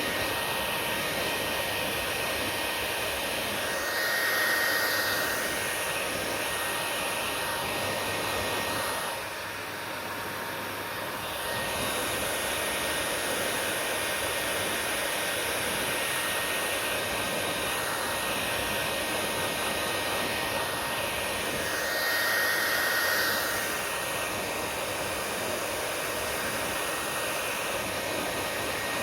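Hair dryer running steadily, a rushing blow with a thin high whine. It swells briefly about four seconds in and again a little past twenty seconds, and drops off for a couple of seconds around ten seconds in.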